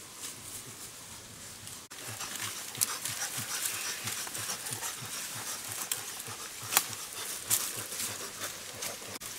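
A dog panting in quick, even breaths, with rustling.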